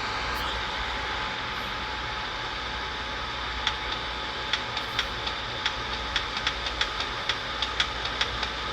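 Keystone evaporative air cooler's fan running steadily on high speed, a rushing hum. From about four seconds in comes a run of sharp clicks, two to three a second, the sound of a control button being pressed over and over, a button that does not respond well.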